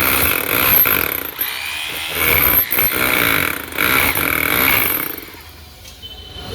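Electric hammer drill running in three short spurts as the trigger is squeezed and eased off, with a high motor whine over a rattling buzz, then winding down near the end.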